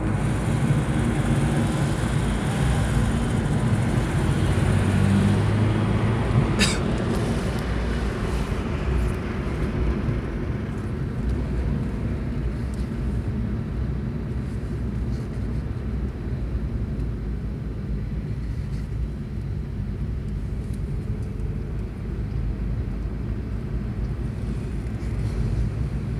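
Porsche 964 Carrera 4's air-cooled flat-six and tyre and wind noise, heard from inside the cabin while driving on track. The engine pulls harder for the first several seconds, there is a sharp click about seven seconds in, then it settles to steadier, slightly quieter running.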